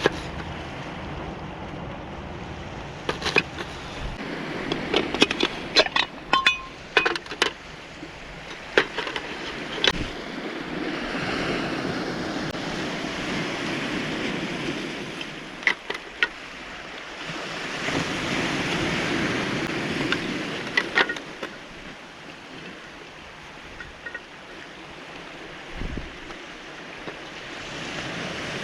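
Waves breaking and washing in on a cobblestone beach, swelling and fading every several seconds. A run of sharp clicks and knocks comes in the first third.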